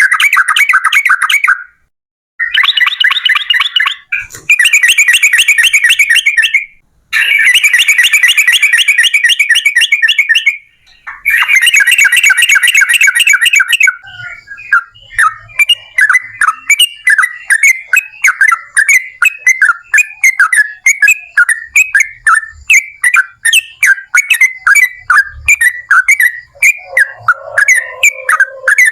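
Yellow-vented bulbul (trucukan) song: several long runs of very fast repeated chattering notes, the long 'ropel' trill, each a few seconds long with short breaks. About halfway through it changes to a string of separate short, bubbly notes.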